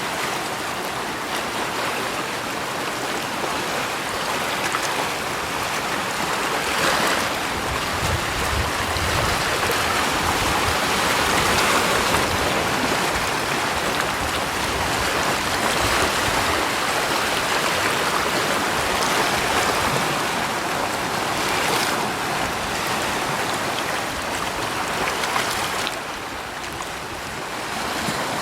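Steady rush of moving water, swelling louder through the middle and easing briefly near the end.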